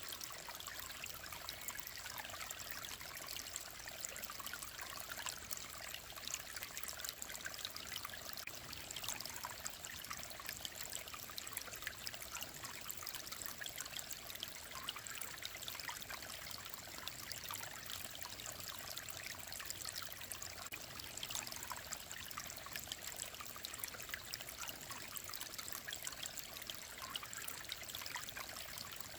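Clear mountain stream flowing over stones, a steady bright babbling and trickling with no let-up.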